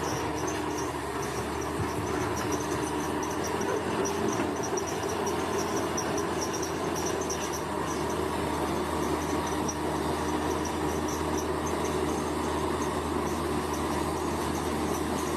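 Bulldozer's diesel engine running steadily at an even pitch, with insects chirping high above it throughout.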